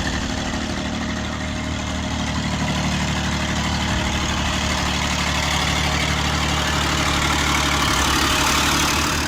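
A truck engine running steadily, its noise building gradually toward the end.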